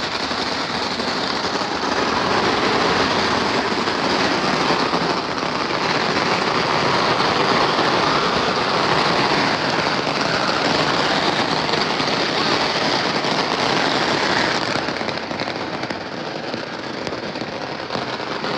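Fireworks crackling in a dense, unbroken stream of rapid pops, easing off slightly near the end.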